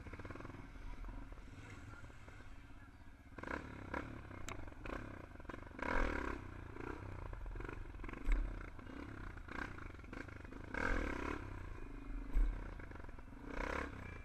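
Motorcycle engines running with a low rumble, revved in several short loud bursts.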